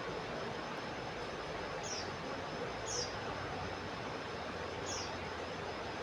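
Common iora (cipoh) giving three short, high chirps that slide down in pitch. The first two come about a second apart and the third about two seconds later, over a steady hiss of outdoor background noise.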